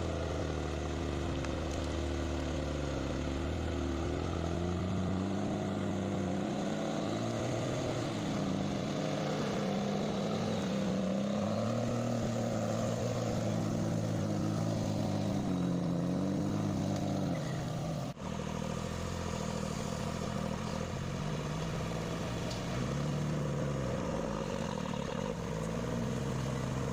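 Heavy forestry machine's engine running under load, its revs repeatedly rising and falling, with a brief break about two-thirds of the way through.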